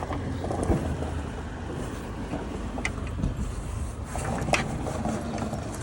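A car engine running steadily at idle, with a couple of sharp clicks.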